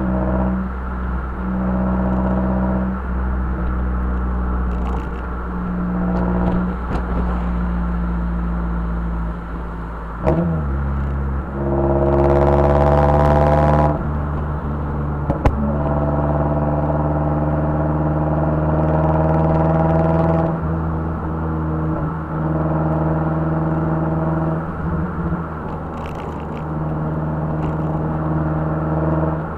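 Turbocharged 2.3-litre four-cylinder of a modified Mazdaspeed 3 with a cattless downpipe and HKS cat-back exhaust, cruising on a winding road, heard from inside the car. The engine note steps up and down with throttle, and about twelve seconds in it rises under acceleration with a loud rushing hiss before settling back.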